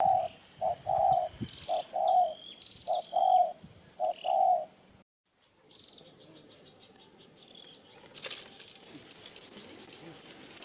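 A dove cooing, a short note then a longer one, four times over, with another bird chirping higher above it. After a short break, faint outdoor ambience with light bird chirps and one sharp click a little after eight seconds.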